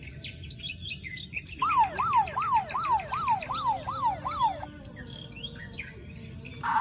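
Electronic toy siren wailing in quick rising-and-falling sweeps, about seven cycles over three seconds starting a little after one and a half seconds in, over a scatter of high chirps.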